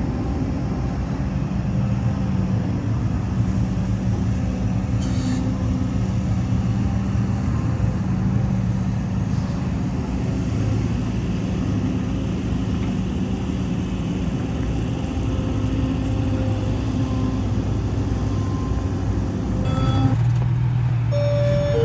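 Heavy diesel earthmoving machinery, an excavator and dump trucks, running steadily with a low engine drone. About 20 seconds in the engine note shifts and gets louder, and a high beep sounds just at the end, the start of a reversing alarm.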